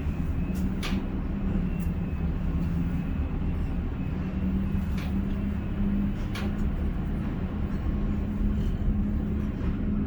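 Ship-to-shore container crane machinery running, heard from the operator's cab: a steady low rumble with a wavering hum and a few sharp clicks.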